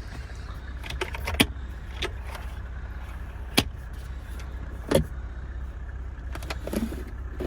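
Scattered sharp clicks and light knocks from handling inside a car's cabin, over a steady low rumble. The clicks come about a second in, near a second and a half, around three and a half seconds and at five seconds, with a few fainter ticks near the end.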